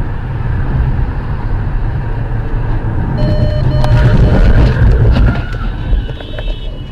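Motor vehicle on the road, heard as a loud, heavy low rumble of engine and road noise. About three seconds in come two short beeps, followed by a scatter of knocks and rattles before the rumble eases near the end.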